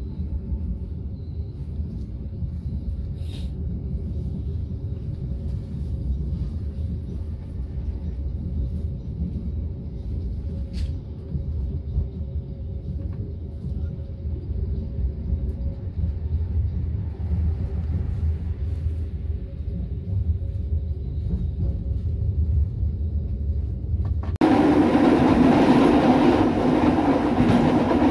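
Steady low rumble of the KA Kahuripan economy train heard inside the carriage, with a faint steady hum. About 24 seconds in it cuts sharply to the much louder running noise of the train on the track, heard from its open rear end.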